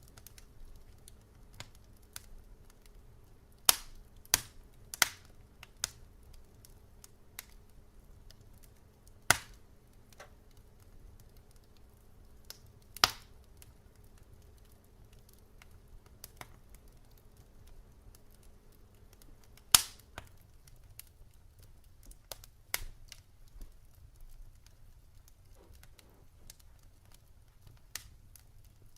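Wood fire in a fireplace crackling, with sharp irregular pops every few seconds over a low rumble of the flames. A faint steady hum underneath cuts out about twenty seconds in.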